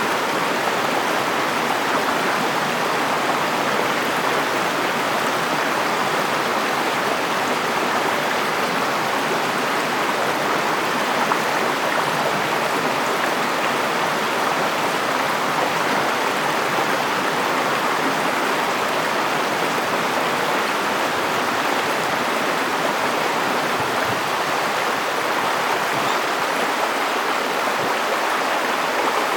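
River water flowing and rushing over stones, a steady, unbroken wash of sound.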